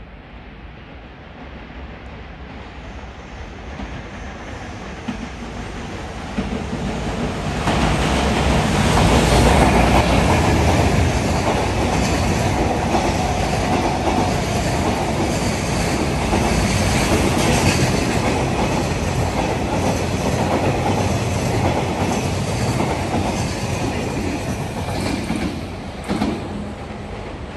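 A train approaching and running past on the station tracks: its rumble builds over the first several seconds, stays loud with a repeated clickety-clack of wheels over rail joints, and falls back about 26 seconds in.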